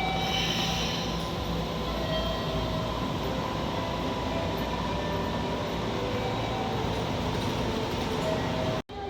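Train running with a steady rail rumble, broken by a short gap near the end.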